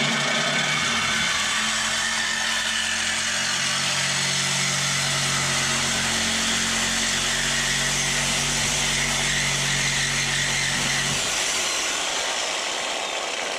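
Reciprocating saw (Sawzall) with a metal-cutting blade sawing through a steel car exhaust pipe: a steady loud buzz with rasping metal. The motor's hum drops out about eleven seconds in, and the sawing fades near the end.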